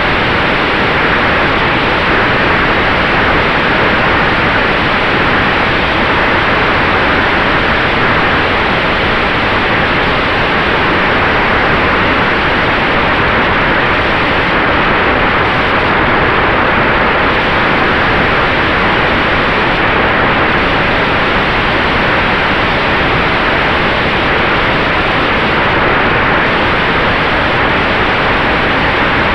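Steady rush of airflow and propeller noise in the cockpit of an electric-powered Sonex Xenos in flight, with a faint steady high tone running through it.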